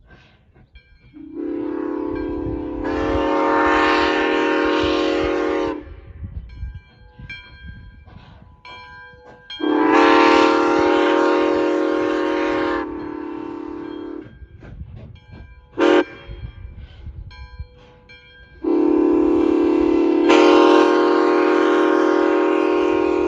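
Nevada Northern steam locomotive No. 93's whistle (a 2-8-0) blowing long, long, short, long, the grade-crossing signal. The last long blast is still sounding at the end.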